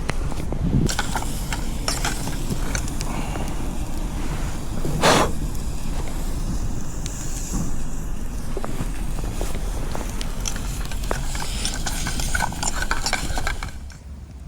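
Small clicks and clinks of camp gear being handled, over a steady low rumble of wind on the microphone, with one louder rushing scrape about five seconds in.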